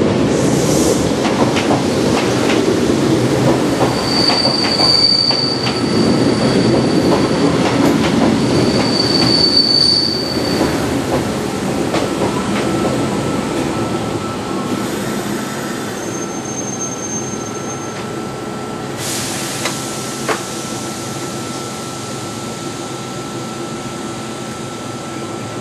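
Kintetsu 16000-series limited-express electric train pulling into a platform and braking to a stop: loud wheel and rolling noise with two high brake squeals, about four and nine seconds in. The noise eases off after about eleven seconds as the train slows, leaving a steady high hum.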